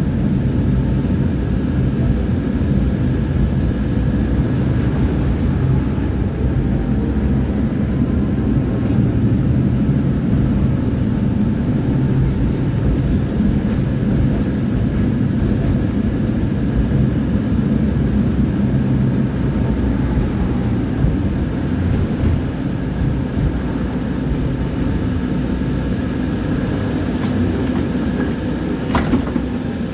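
Tram running along its rails with a steady low rumble of wheels on track and a faint steady whine. There is a sharp click near the end.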